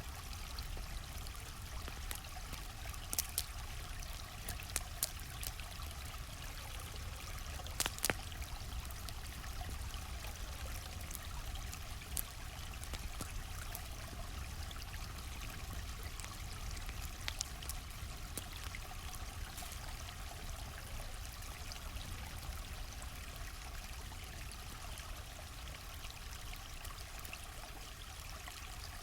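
A stream flowing steadily, with scattered sharp pops and crackles from a wood campfire, a few of them close together.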